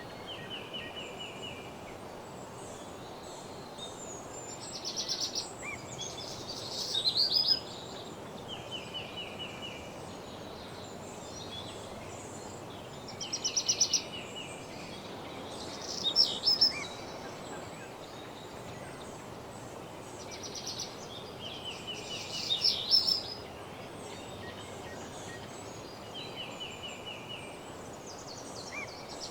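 Woodland songbirds singing: short trilled phrases of rapid, evenly spaced notes repeat every few seconds, some lower and some higher and louder, over a steady background hiss.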